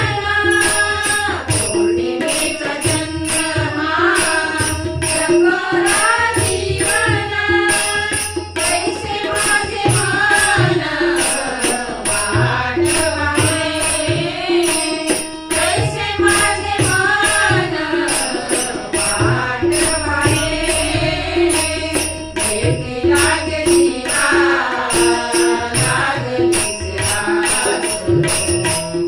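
A women's bhajan group sings a Marathi devotional abhang, accompanied by harmonium and tabla. Small hand cymbals (taal) clash on a steady, regular beat throughout.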